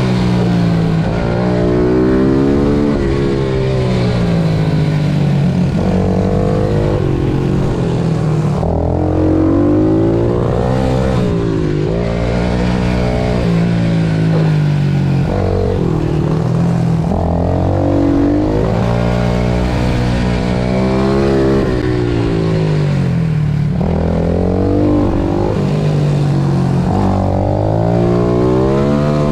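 Pit bike engine at racing speed, its revs climbing and falling back over and over as it accelerates, shifts and slows for corners.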